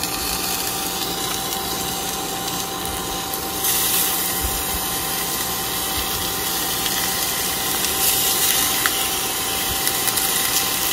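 A frozen block of chicken cheesesteak meat sizzling in a hot skillet, a steady hiss that gets louder about four seconds in.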